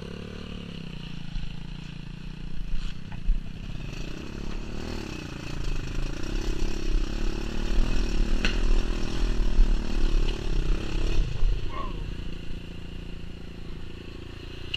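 Small single-cylinder pit bike engine running and revving as it is ridden, pitch rising and falling with the throttle, louder from about four seconds in until near the end, with wind buffeting the microphone.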